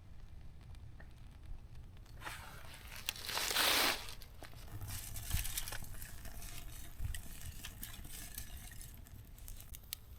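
A loud hiss lasting about two seconds, then small kindling crackling and snapping as a campfire of cedar-bark tinder and fatwood catches.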